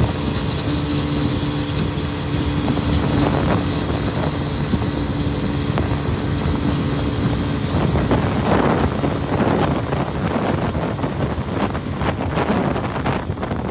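Suzuki 150cc motorcycle running at steady motorway speed, under heavy wind rush on the microphone. A steady engine tone carries for the first seven or eight seconds and then drops away, and after that the wind rush comes in stronger surges.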